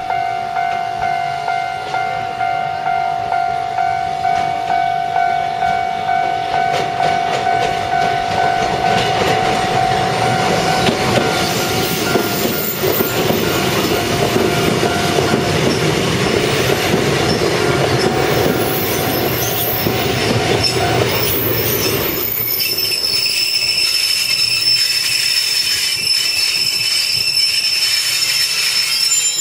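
Japanese level-crossing warning bell ringing about twice a second, while vintage Kotoden electric cars coupled four together rumble past close by over the rails. The bell stops about two-thirds of the way through, and a high, steady wheel squeal follows as the train runs into the platform.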